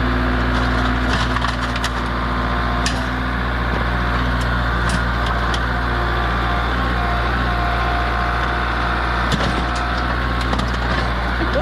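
Tractor engine running steadily, with scattered sharp cracking and splintering as a riding mower is broken apart.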